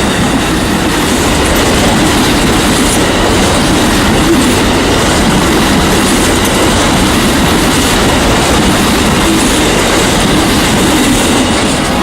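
A train passing close by: a loud, steady rumble of railcar wheels running over the rails.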